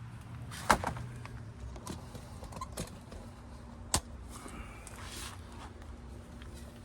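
A few scattered sharp knocks and clicks from handling parts in a pickup's cab, the loudest about a second in, over a faint steady low hum.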